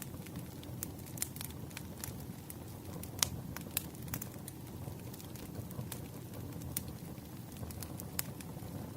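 Campfire burning: a steady low rumble of flames with irregular sharp crackles and pops of burning wood, the loudest snap a little over three seconds in.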